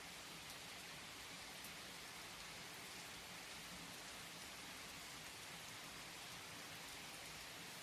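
Steady rain falling, faint and even, with no break or separate event.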